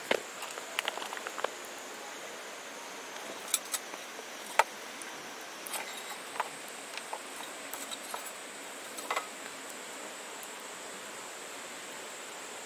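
Small wood fire burning in an Esbit pocket stove: a steady hiss with scattered sharp crackles and pops, the loudest about four and a half seconds in. The crackling thins out after about nine seconds, leaving only the hiss.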